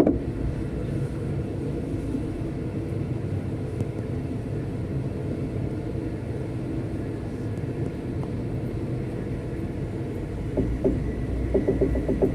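V/Line passenger train running: a steady low rumble, with clicks of wheels over the track starting to come in near the end.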